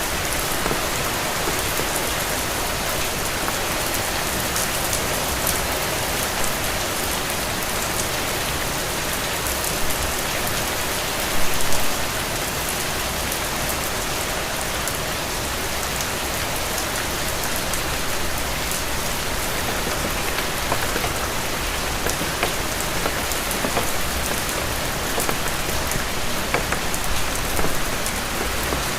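Steady rain falling, with many single drops pattering sharply close by. There is a short louder spell about eleven seconds in.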